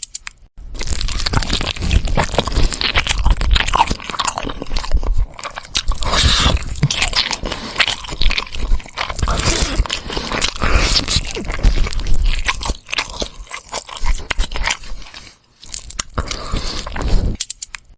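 Close-miked eating: loud biting, crunching and chewing through bony food, with brief pauses just after the start and about 15 seconds in.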